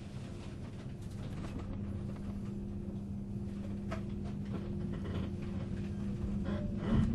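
Cabin sound inside a 485-series electric multiple unit motor car as the train gets under way: a low rumble under a steady electrical hum, with a few light clicks and a louder knock near the end.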